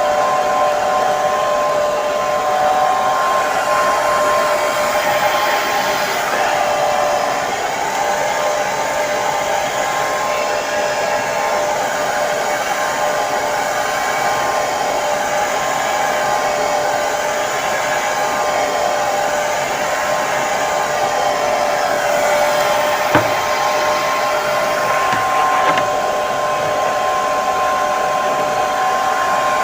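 Hair dryer running continuously: a steady rush of blown air with a steady motor whine over it. There is one brief click about three-quarters of the way through.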